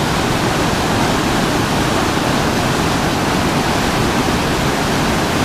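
Steady rush of whitewater pouring over a river ledge drop, loud and unbroken.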